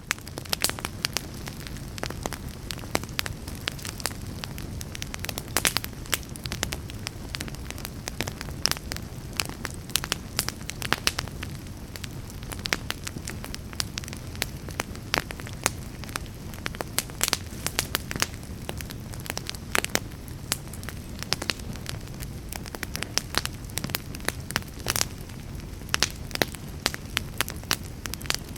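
Fire burning in a fireplace, crackling steadily: frequent sharp, irregular pops and snaps over a low, continuous rumble.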